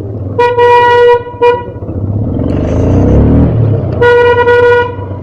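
A vehicle horn honks three times, long, short, then long, in one steady tone, over the steady low running of a motorcycle engine in traffic. About midway an engine note falls in pitch.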